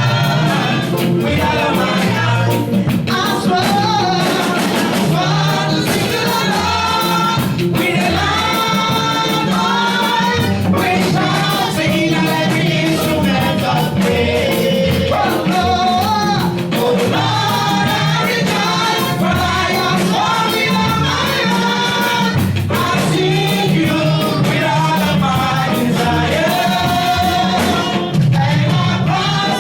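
Gospel praise and worship song: singers carry the melody over a band with bass and drums, at a steady beat.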